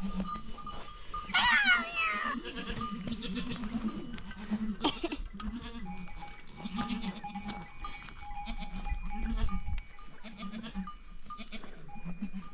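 A flock of goats bleating, with one loud call falling in pitch about a second and a half in. A bell on the flock rings steadily for several seconds near the middle.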